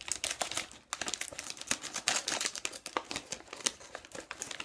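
A plastic shrimp-chips snack bag crinkling in rapid, irregular crackles as it is handled and opened, with a brief pause about a second in.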